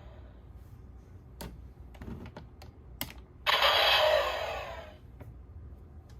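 Plastic clicks from handling a DX Kamen Rider toy transformation driver and progrise key, then, about halfway, a loud noisy sound effect lasting about a second and a half from the toy's speaker.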